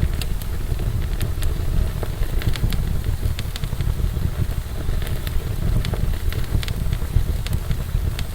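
Wood fire burning in a fireplace: a steady low roar of flame with frequent sharp crackles and pops.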